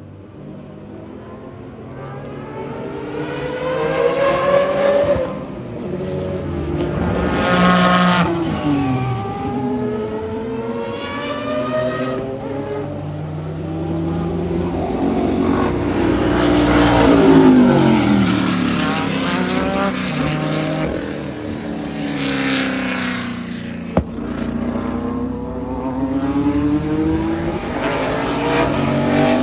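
Historic IMSA GTP prototype race cars passing one after another at speed, each engine note swelling and then dropping in pitch as it goes by, the loudest pass about two-thirds of the way through.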